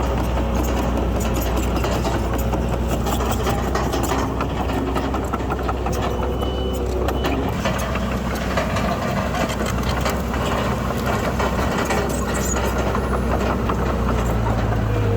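Diesel engine of heavy earthmoving machinery running steadily under load, with scattered clanks and knocks. The low engine note changes near the end.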